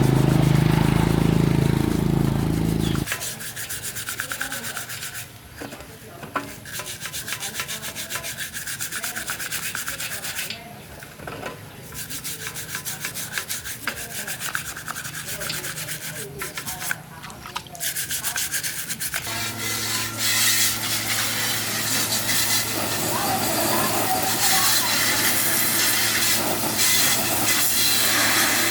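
Rapid, repeated rubbing strokes, like sanding or scraping, stopping briefly a few times. About two-thirds of the way through, a steady low motor hum starts up under continued rougher scraping. A loud low hum is also heard at the very start, ending about three seconds in.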